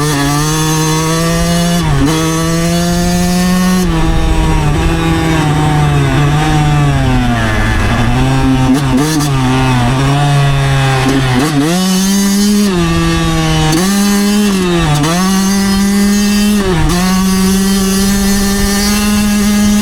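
2009 Yamaha YZ125 125cc two-stroke single-cylinder dirt bike engine running under throttle. Its pitch climbs and then dips briefly a handful of times as the throttle eases and opens again, settling higher in the second half.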